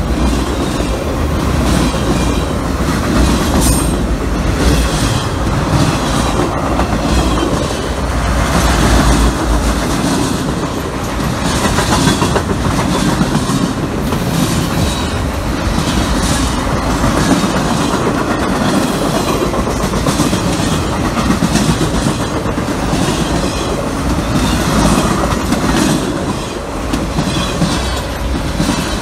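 Freight train passing close at speed: the steel wheels of a long string of loaded flatcars run on the rails with a steady rumble and clicking in a repeating rhythm.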